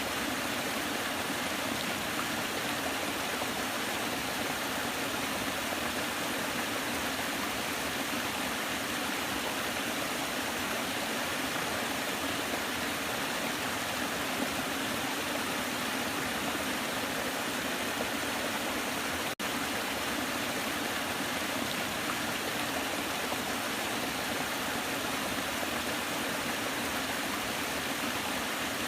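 Waterfall: a steady, continuous rush of falling water, with a momentary dropout about two-thirds of the way through.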